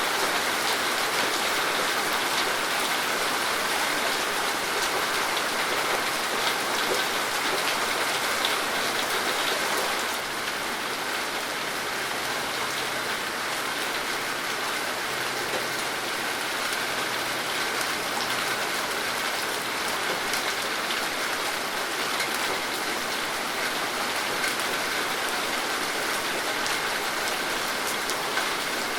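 Steady rain falling, an even dense patter with no pauses; it eases slightly about ten seconds in.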